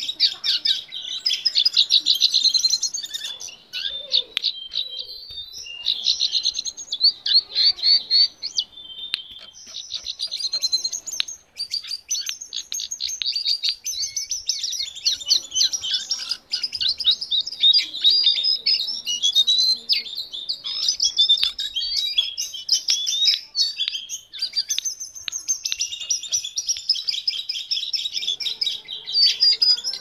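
Jongkangan singing a long, rapid, varied twittering song, high-pitched, in runs of a few seconds broken by brief pauses.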